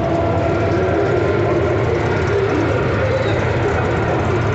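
An engine idling steadily, an even low rumble with no revving.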